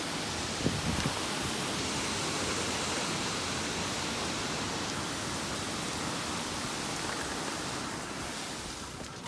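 Storm noise: heavy rain and wind making a steady, even rush that eases slightly near the end.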